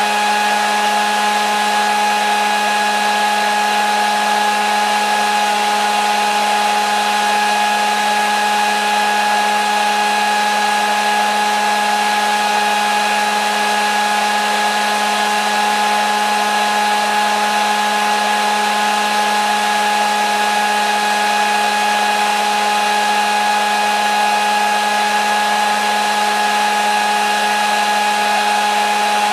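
Hair dryer running continuously at a constant setting: a steady rush of air over an even motor hum and whine that never changes.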